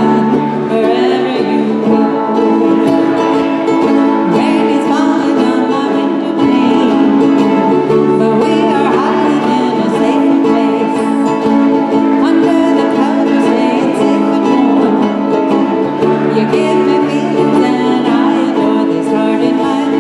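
Live band playing a light pop song, with strummed plucked-string accompaniment and some singing.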